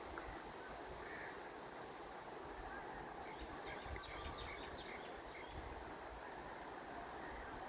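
Faint outdoor ambience with a few short bird chirps about three to five seconds in, over a low rumble.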